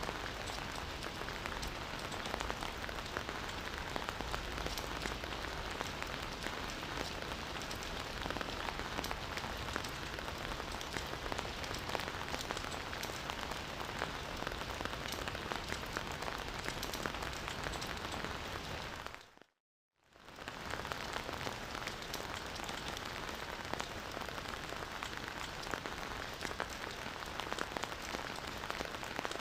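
Steady rain falling on surfaces, a dense patter of many small drops. About two-thirds of the way through it fades out to silence for under a second and comes straight back, like a splice in a looped recording.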